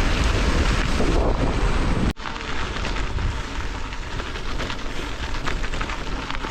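Wind buffeting the microphone while riding, a loud rumbling rush with no voice in it; it breaks off about two seconds in and goes on a little quieter.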